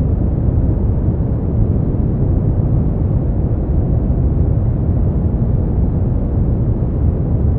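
Brown noise: a steady, deep rumbling hiss, heaviest in the bass and fading out toward the treble, with no change or events.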